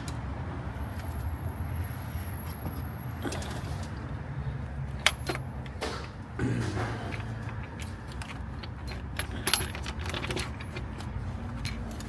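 Light clinks and knocks of parts and tools being handled as the intake manifold is lowered onto the engine's cylinder heads, with the sharpest knock about five seconds in, over a steady low hum.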